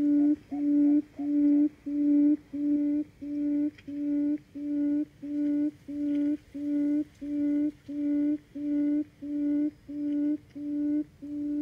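Buttonquail (cút rừng) calling: a long, steady series of low, hollow hooting notes, about one and a half a second, getting slightly softer toward the end.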